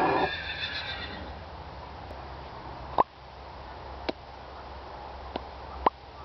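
Australian bustard call, a harsh pitched sound that fades out within the first second. It is followed by a handful of sharp, very short clicks over a low background.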